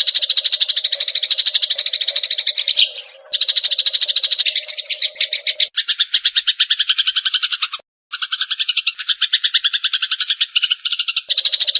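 Sparrows chirping in rapid, agitated chattering trains, the fighting call. The chatter breaks off and restarts partway through, with a brief silence about 8 seconds in.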